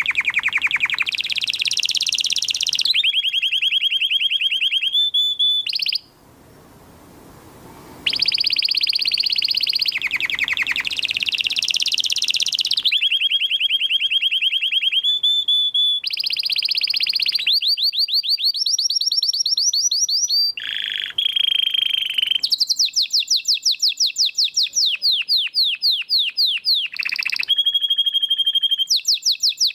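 Canary singing a long song of rapid rolling trills. Each roll is one note repeated many times a second for a second or two, then it switches to another pitch. The song breaks off for about two seconds near six seconds in, then resumes.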